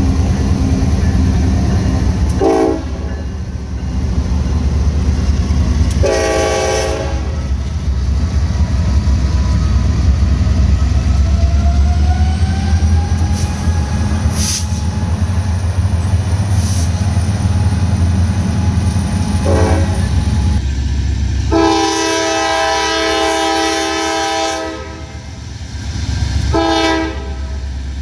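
Diesel freight locomotives passing with a heavy, steady engine rumble. The multi-note air horn sounds several times: brief blasts in the first seven seconds, then a long blast of about three seconds starting about three-quarters through, and another blast near the end.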